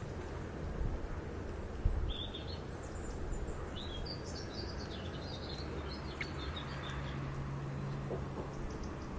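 Birds chirping in short, high calls for a few seconds, over steady background noise; a single thump about two seconds in and a low hum toward the end.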